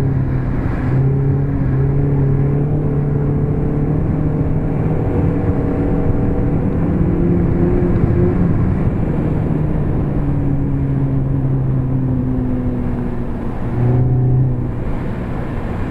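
Suzuki Ignis 1.5 16-valve four-cylinder petrol engine running as the car is driven, heard from inside the cabin over steady tyre and road rumble. The engine note holds steady, shifting pitch a few times and rising briefly near the end.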